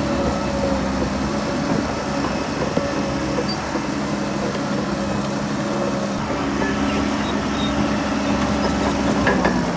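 Heavy diesel engine of earthmoving machinery running at a steady speed, with a short clatter near the end.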